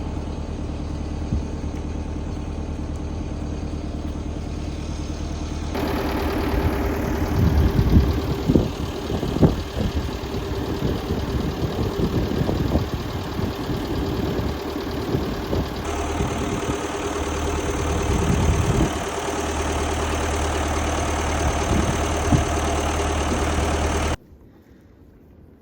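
Tractor engine running steadily, with a series of knocks and clunks in the middle. It stops abruptly near the end.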